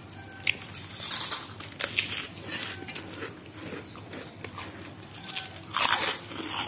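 A person chewing a mouthful of tofu, rice cake and vegetables, with moist mouth smacks and small crunches in irregular bursts. The loudest burst of mouth noise comes about six seconds in.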